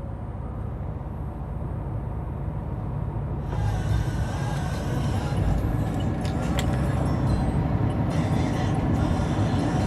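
2018 Ford F-150 King Ranch engine idling, heard from inside the closed cab: a steady low rumble, with a hiss joining about three and a half seconds in.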